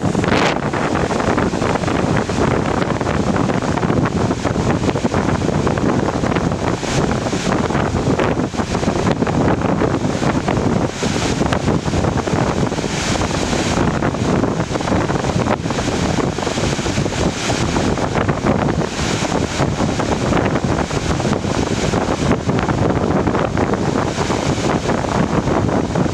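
Reykjafoss waterfall, a steady loud rush of falling water, with some wind noise on the microphone.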